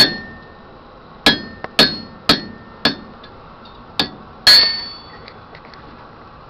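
Blacksmith's hammer striking a cut-off chisel to cut through a hot steel bar: seven sharp, ringing metal blows at an uneven pace, the last one the loudest. The hammering stops about two-thirds of the way in.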